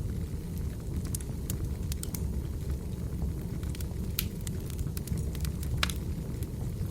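Wood fire burning: a steady low rumble with scattered sharp crackles and pops, two of them louder, a little after four seconds and near the end.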